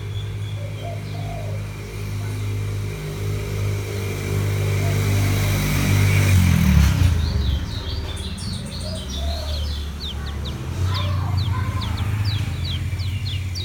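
A kecial kuning (a white-eye) singing a rapid run of short, high, sharply falling notes from about halfway in. Under it runs a low engine hum from a vehicle, loudest just before the bird starts, when its pitch drops.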